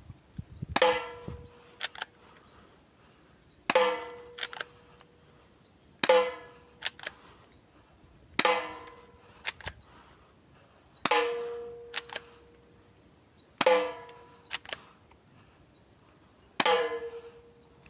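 Airsoft Sig Sauer P226 pistol firing 6 mm BBs: seven single sharp shots, about two and a half seconds apart. Each shot is followed by a short metallic ringing and a pair of faint clicks.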